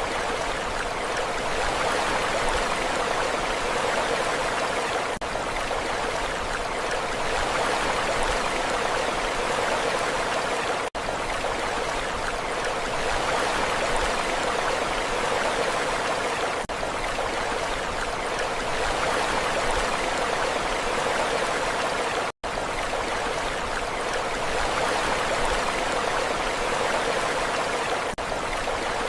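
Steady rushing water, an even hiss with no rise and fall of waves. It cuts out for an instant twice, once about a third of the way in and again about three quarters in.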